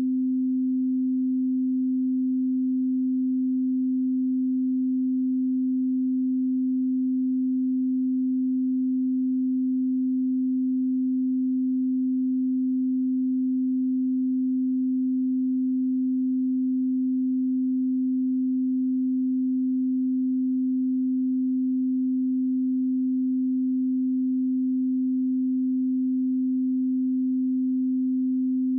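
A 258 Hz pure sine-wave test tone, held steady at one pitch and level without a break.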